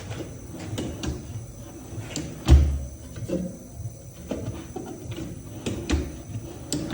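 Irregular knocks and bumps of wooden cabinet parts being handled, with a heavier thump about two and a half seconds in and another at the end.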